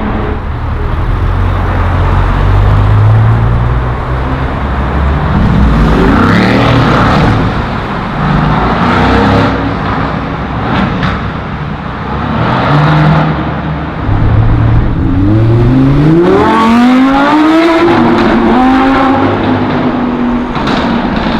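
High-performance car engines accelerating hard as the cars pull away and pass, several surges one after another. Near the end one engine revs up in a long rising pitch, then holds a steady note.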